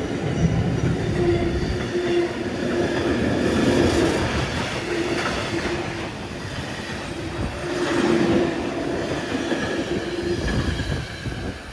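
A train running past at close range, its wheels rumbling over the rails with a steady hum in the noise and the sound swelling and easing as it goes by.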